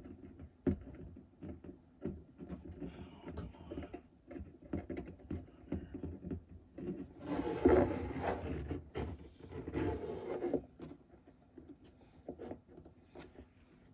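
Vinyl electrical tape being pulled off the roll and wrapped around a wire at the end of a fish tape, with small handling clicks and rubbing throughout and two longer stretches of scraping noise a little past halfway.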